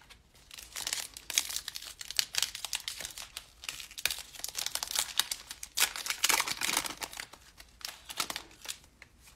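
A trading-card pack's foil wrapper being torn open and crinkled by hand, in an irregular run of crackles with short pauses.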